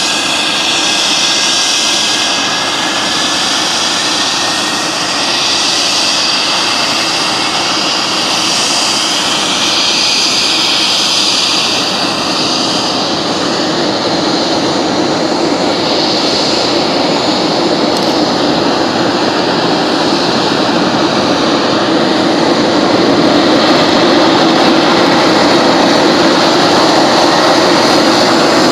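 Jet aircraft engine running: a loud, steady rush with a high whine that drifts slowly in pitch, swelling a little louder near the end.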